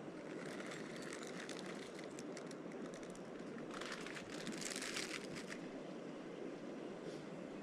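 Crinkling with scattered small crackles over a steady rushing background, the crinkling loudest from about four to five and a half seconds in.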